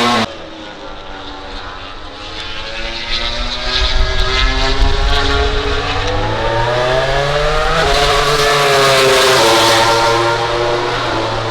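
MotoGP racing motorcycle engines at the track, their pitch rising and falling as the revs change, growing louder about two to four seconds in.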